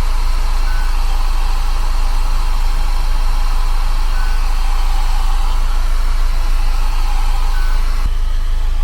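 Hair dryer running steadily with a loud, even hiss, blowing on ice. A faint short high beep comes about every three to four seconds.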